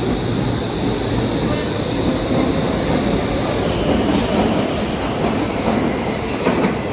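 Stockholm Metro train running along the track: a steady rumble under a high whine that fades out about four seconds in, with short high squeals from the wheels in the second half.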